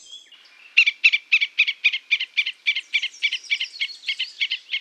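A rapid series of short, sharp animal chirps, about four a second, starting under a second in and carrying on steadily.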